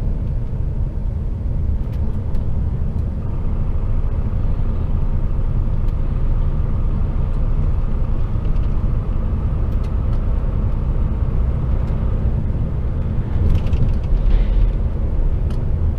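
HGV container truck's diesel engine and road rumble heard from inside the cab, running steadily. Near the end the trailer bangs behind the cab in a few short knocks.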